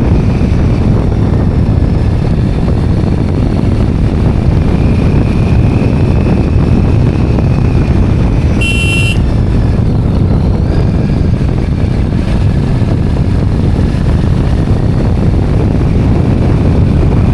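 Steady road noise from a motorbike ride: the two-wheeler's engine and heavy wind buffeting the microphone. A vehicle horn gives one short toot about nine seconds in.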